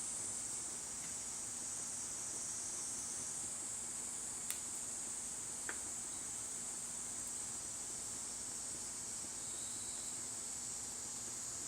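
Steady high-pitched trilling of insects, such as crickets, with two sharp clicks a little before the middle.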